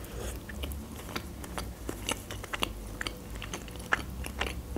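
Close-miked mouth sounds of biting into and chewing an open sandwich of salted red fish and cream cheese on black bread, heard as many small, irregular clicks and smacks.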